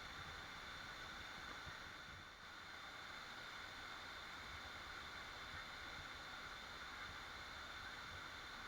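Waterfall rushing in a steady, even wash of water noise.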